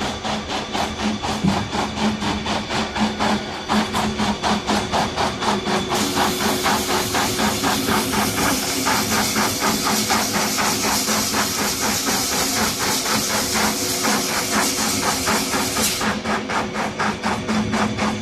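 Tissue paper towel log saw machine running, with a fast regular clacking of about four or five strokes a second over a steady hum. A loud hiss comes in about six seconds in and cuts off sharply about ten seconds later.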